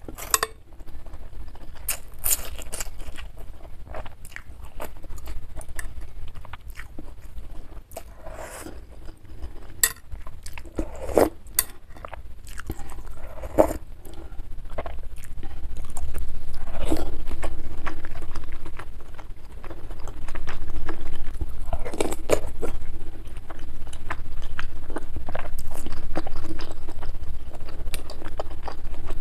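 Close-miked eating sounds: chewing and slurping a spicy meatball soup with glass noodles, with scattered wet smacks and clicks, louder in the second half.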